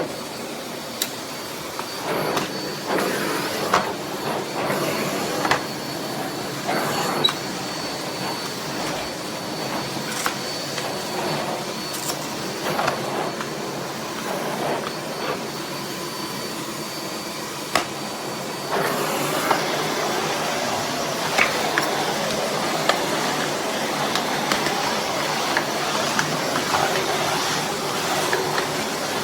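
Miele Blizzard CX1 bagless canister vacuum running: a steady rush of air with a thin high whine and scattered knocks and clicks. About two-thirds of the way through, the whine drops away and the rush gets louder.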